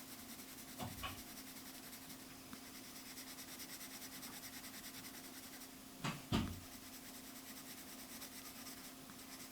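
Faint scratching of drawing strokes on paper as areas are shaded in, under a steady low hum. Short knocks sound about a second in and again, louder, about six seconds in.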